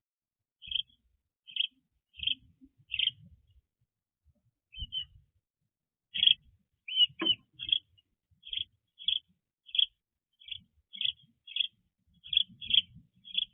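A small bird chirping repeatedly: short, high, same-pitched chirps about two a second, breaking off for a couple of seconds before picking up again, with a faint knock now and then.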